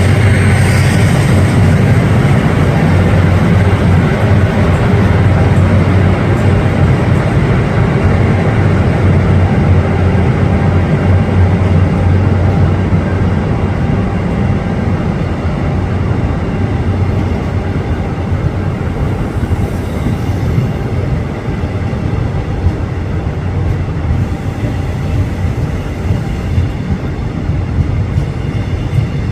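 Locomotive-hauled passenger train pulling out: a steady low rumble of the locomotive and wheels on the rails, with a faint high whine. It eases off gradually in the second half.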